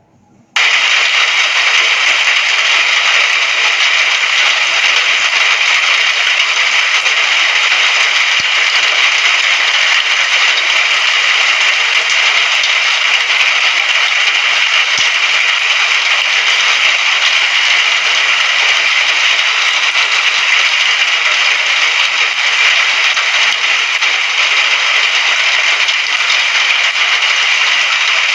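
Recorded rain falling steadily as a dense, even hiss with fine crackle and no thunder. It cuts out for a moment right at the start, then comes back at a constant level.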